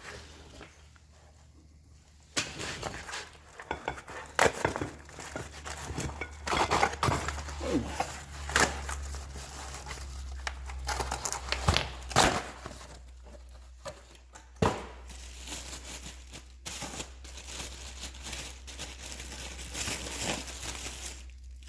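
Packaging crinkling and tearing, with scattered knocks and clinks, as a new brake rotor is unpacked and handled. A steady low hum runs underneath.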